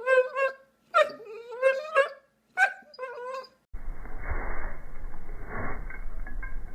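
A dog whining in a series of drawn-out, wavering cries. A bit under four seconds in, the sound cuts to a muffled, hissy recording.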